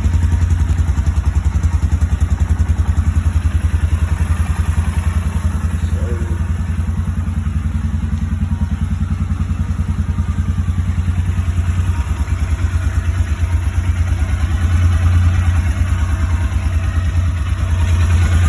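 The single-cylinder Rotax engine of a 2004 Bombardier Outlander 400 XT ATV idles steadily just after a cold start, with an even low putter that gets a little louder near the end.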